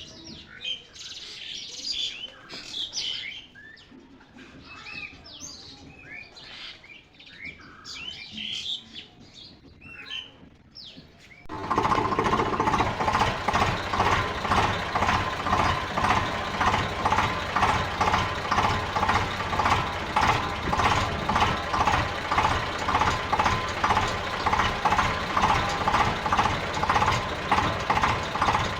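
Small birds chirping, then from about twelve seconds in an engine running loudly and steadily with a regular pulse, starting abruptly.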